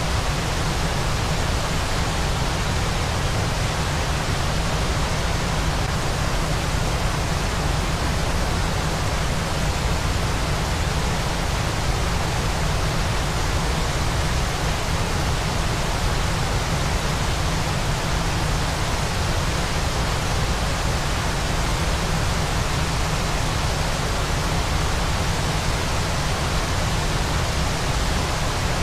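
Waterfall: a steady, unchanging rush of falling water, a deep rumble under an even hiss.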